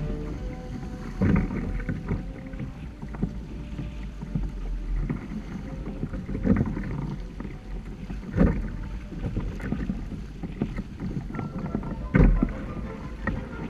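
Water splashing and slapping against the hull of a Hobie Tandem Island sailing trimaran under way, with a few louder slaps at irregular intervals.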